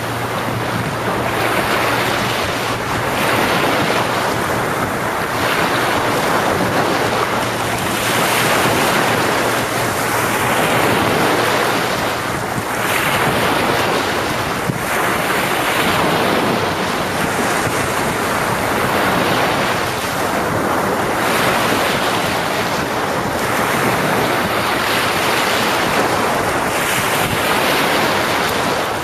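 Ocean surf breaking on the shore: a continuous loud wash of waves that swells and eases every few seconds.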